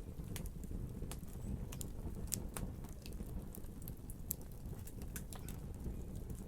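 Wood fire crackling: a steady low rumble of flames with irregular sharp pops and snaps, several a second.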